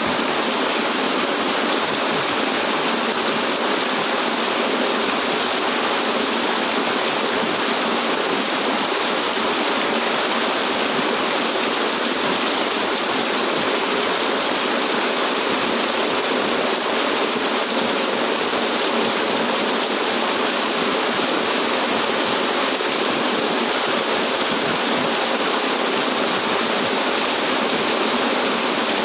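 Steady rain falling, an even rushing hiss of water with no breaks.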